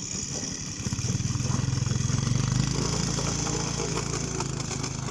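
Small vehicle engine running under load, revving up about a second in and holding, then easing off slowly.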